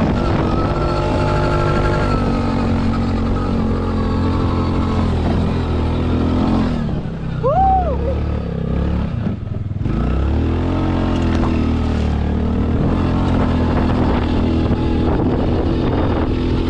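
Quad bike engine running under way, its pitch dropping and then climbing again around eight to ten seconds in as the engine slows and picks back up. About seven seconds in there is a short high tone that rises and falls.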